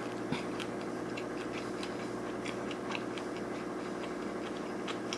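Close-up chewing of crispy fried shrimp tempura, including its shell tail: a string of small, irregular crunching clicks, a few a second.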